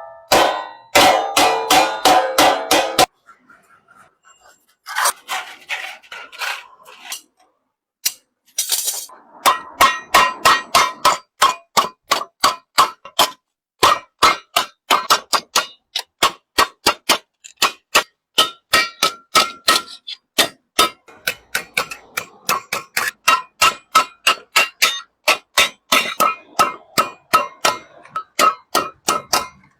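Hand hammer striking sheet metal: a run of quick, sharp blows, about four a second, each with a short metallic ring. The hammering breaks off twice for a second or two and then resumes steadily.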